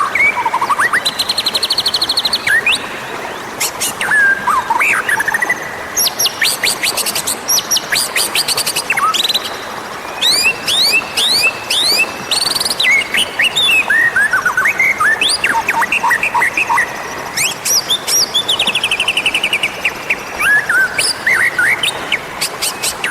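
White-rumped shama (murai batu) singing a varied, continuous song of clear whistles, quick downward-sweeping notes and bursts of rapid trills. This is the kind of song used as a lure to call wild shamas.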